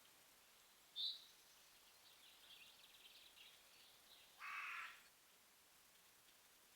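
Faint bird calls: a short high chirp about a second in, a stretch of soft chattering, then one harsh, caw-like call about half a second long.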